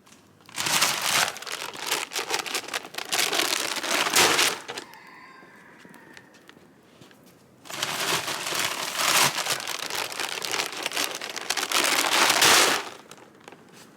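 Dry chicken feed pouring from a bag into a feed barrel, a dense rattling hiss. It comes in two pours, the first about four seconds long and the second about five.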